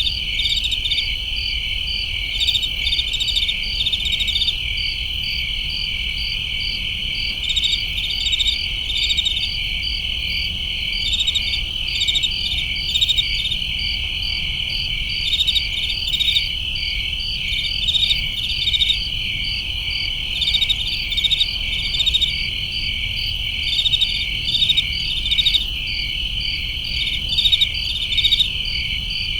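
Crickets and other summer night insects chirping: a steady high trill with overlapping clusters of quick chirps that recur every second or two, over a faint low hum.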